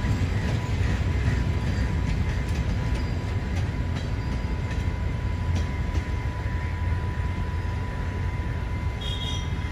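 Passenger train carriages rolling past on the rails, a steady low rumble of wheels on track.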